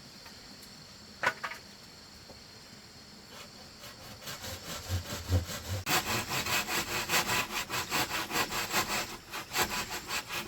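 A hand saw cuts back and forth through a bamboo pole in quick rhythmic strokes after a single knock about a second in. The strokes start about four seconds in and become steady, with a brief pause near the end. The saw is blunt and bites into the bamboo slowly.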